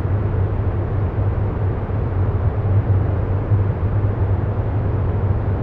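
Steady low droning hum with an even hiss over it, unchanging throughout: a continuous meditation background soundscape.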